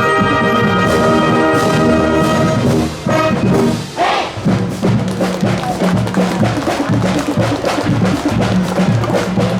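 High school marching band playing: a held brass chord breaks off about three seconds in, then the percussion takes up a quick, even rhythm under a repeating low brass figure.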